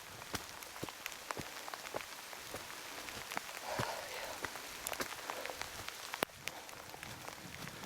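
Heavy rain falling steadily, with many sharp taps of single drops striking close by.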